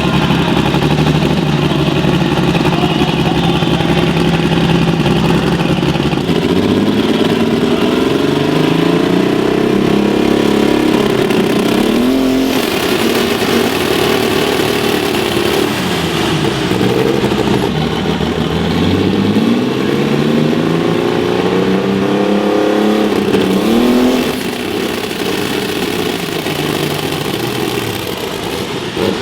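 Loud engine of a pulling vehicle at high revs: steady pitch for the first six seconds, then its pitch sweeping up and down again and again, quieter from about 24 seconds in.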